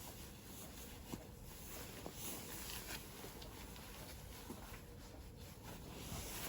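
Faint rustling with a few light clicks and taps, like clothing and gear being handled.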